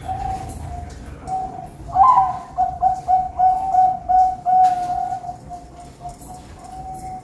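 Zebra dove (perkutut) cooing: a rapid run of soft notes held at one pitch, growing louder and fuller from about two seconds in.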